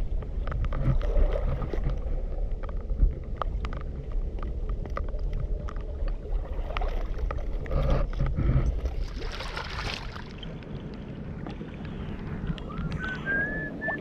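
Wind rumbling on the microphone with scattered clicks and crunches of stones and shingle, a brief rush of noise about two-thirds through, and a short rising whistling tone near the end.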